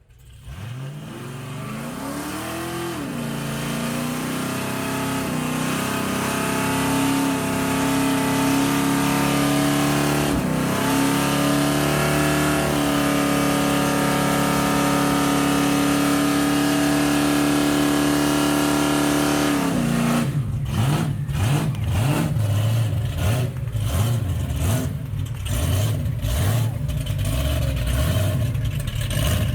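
Car engine starting up and rising to a steady fast idle, held for most of the time. About two-thirds of the way in it drops to a lower, lumpy, uneven idle.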